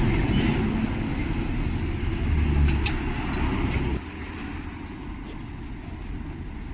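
Street traffic: a low vehicle engine rumble that drops suddenly to a quieter steady hum about four seconds in.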